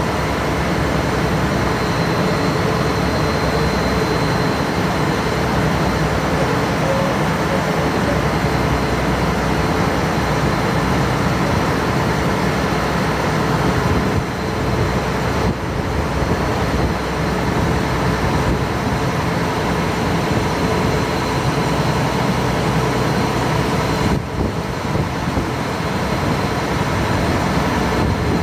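Passenger ferry under way on the river: its engine drone runs steadily with a constant rushing noise, dipping briefly twice.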